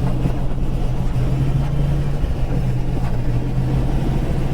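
Indian Challenger motorcycle's V-twin engine running at a steady highway cruise of about 65–70 mph: an even, low drone with wind rush on the microphone.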